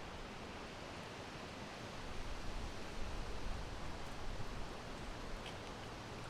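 Steady wind blowing, an even rushing noise with a low rumble that swells in a gust from about two seconds in.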